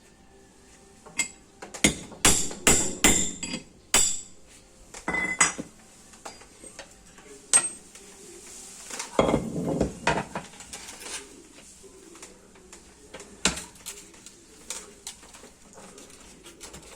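Metal parts and tools clanking and clinking against each other during repair work. There is a quick run of sharp clanks early on, a rough metal scrape around the middle and a few single knocks later.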